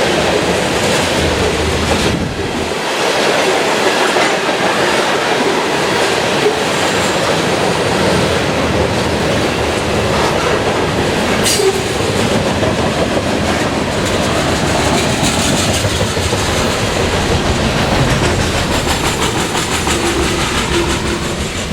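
A train rolling past close by, its cars' wheels clattering and rumbling steadily over the rails, with a few sharp clanks.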